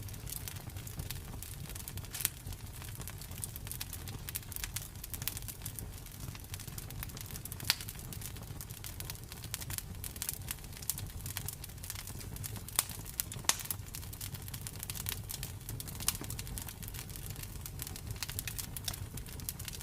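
Campfire crackling with many small pops, a few sharper, louder pops standing out every few seconds, over a low steady rumble.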